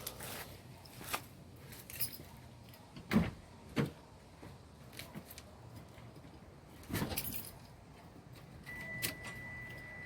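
Keys jangling, with scattered clicks and knocks of handling and no engine running. A steady high-pitched tone starts near the end.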